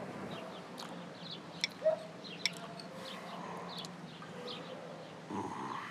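Small birds chirping softly in the background, with a few sharp clicks about two seconds in.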